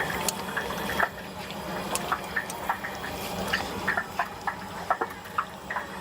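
Stinky tofu deep-frying in hot oil: steady bubbling with irregular pops and crackles, over a steady low hum.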